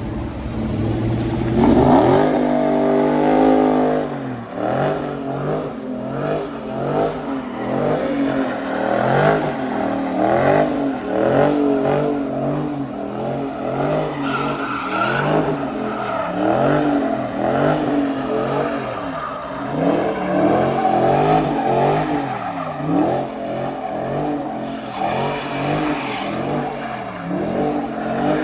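Dodge Scat Pack widebody's V8 revving hard about two seconds in. It then rises and falls in pitch over and over as the car is held in a slide, going round in circles.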